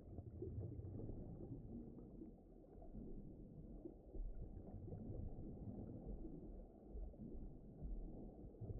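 Low, muffled underwater ocean ambience: a dull rumbling wash of water that rises and falls in level.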